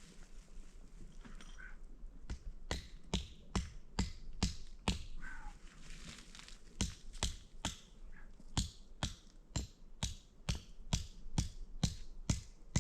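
A long run of sharp knocks or taps, about two or three a second, with a short break about halfway through.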